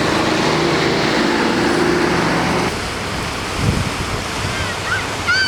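Swollen floodwater of a river rushing in a steady roar. A steady engine hum sits over it for the first half and then stops, and a few short high chirps come near the end.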